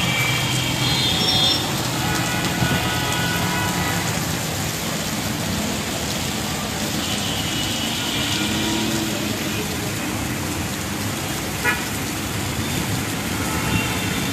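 Road traffic in heavy rain: a steady wash of rain and vehicle noise, with vehicle horns sounding now and then.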